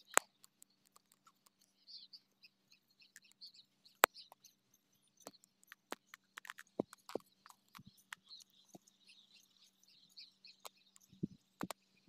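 Faint outdoor ambience of small birds chirping now and then, with a few sharp clicks, the loudest about four seconds in.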